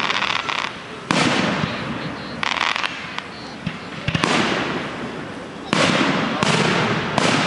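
Fireworks shells bursting overhead: about six loud booms in quick succession, each dying away, with a spell of crackling about two and a half seconds in.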